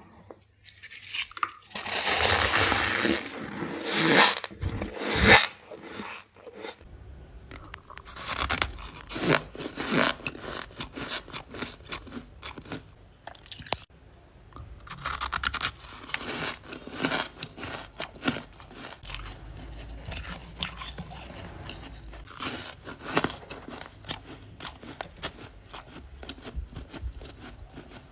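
A person biting and chewing soft freezer frost close to the microphone: crisp crunching and crackling, with a louder, longer stretch of crunching in the first few seconds, then many quick small crunches.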